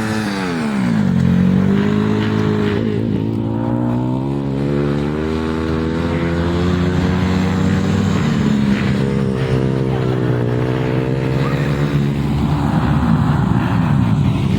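Several flat track racing motorcycle engines running hard with their notes overlapping. The pitch drops about a second in and again around ten seconds in as riders back off for the turns, then climbs as they accelerate back onto the straight.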